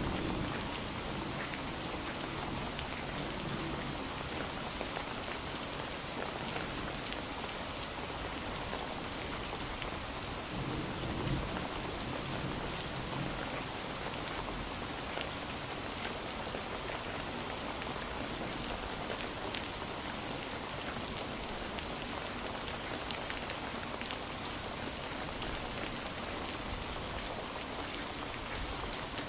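Steady rain falling, with single drops ticking close by. A low distant rumble of thunder swells about ten to thirteen seconds in.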